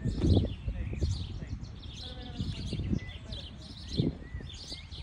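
Many small birds chirping and twittering in quick short notes, over a low rumble with a few dull low thumps.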